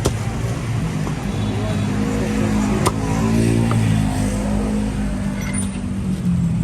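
A vehicle engine running close by, its pitch shifting a little around the middle, over street noise, with a couple of sharp clicks.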